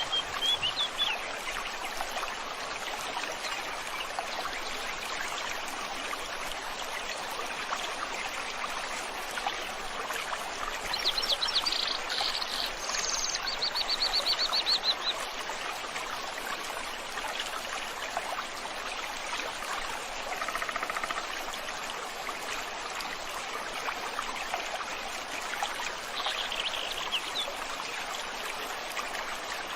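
Stream water running steadily, with a few songbird calls over it: a rapid high trill about a third of the way through and a shorter call near the end.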